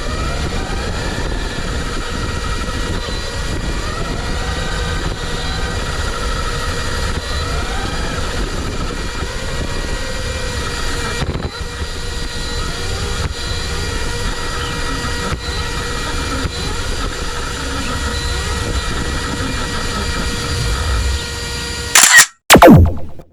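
RC car's brushless electric motor whining up and down in pitch as the throttle changes, over a steady rumble of tyres and wind with a few constant electronic tones. Near the end there are two loud crackling bursts, then the sound cuts off abruptly.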